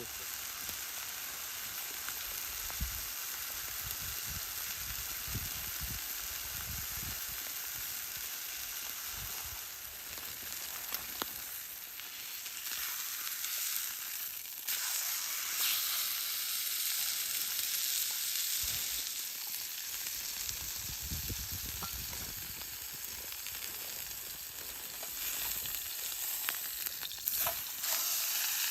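Food sizzling in a frying pan over a campfire: a steady frying hiss with scattered small pops and crackles.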